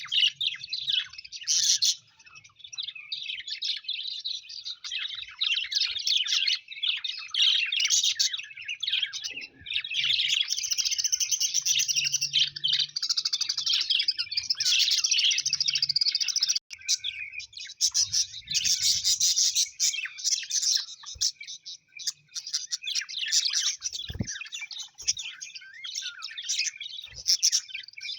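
Small birds chirping and twittering continuously, many high calls overlapping in a dense chatter.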